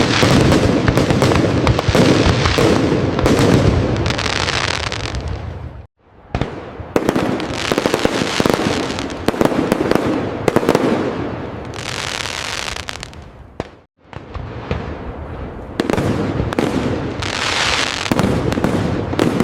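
Fireworks display: dense crackling and rapid popping of aerial shells, with heavier bursts mixed in. The sound breaks off abruptly for a split second twice, about six and fourteen seconds in, then resumes.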